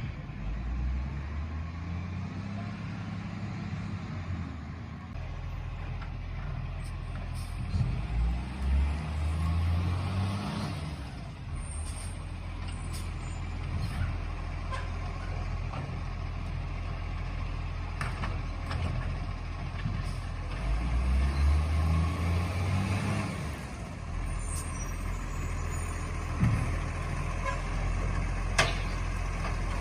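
Garbage truck engine running, revving up three times in long surges, with a couple of sharp knocks near the end.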